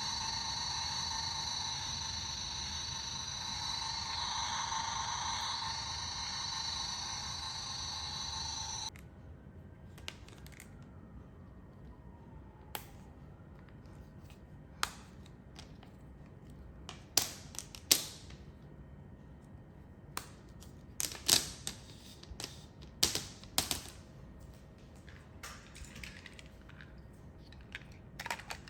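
Music for about nine seconds, cutting off abruptly, followed by scattered sharp clicks and clacks, some in quick pairs, over a low background hiss.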